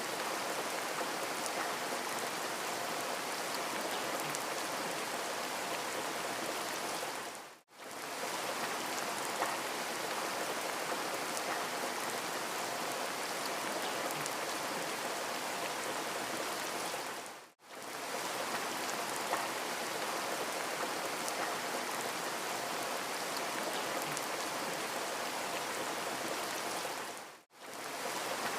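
Steady rain falling, an even hiss with small drop ticks in it. It fades out briefly and back in three times, about every ten seconds.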